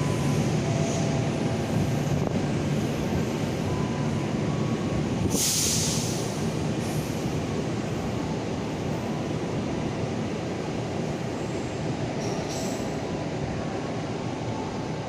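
A train running through a station with a steady rumble of wheels on rails that slowly fades. There is a short burst of hiss about five seconds in, and a brief faint high squeal later on.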